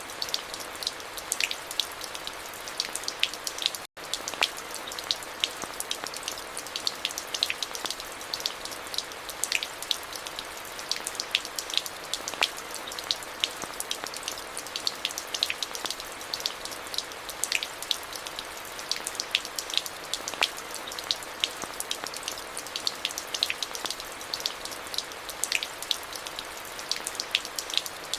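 Steady rain: an even hiss with many sharp, close individual drop hits. There is a split-second dropout about four seconds in.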